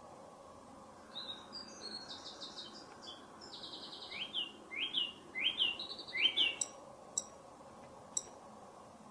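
Birdsong: a run of quick chirps and short rising whistled notes for several seconds, then a few last isolated chirps, over a steady low hiss.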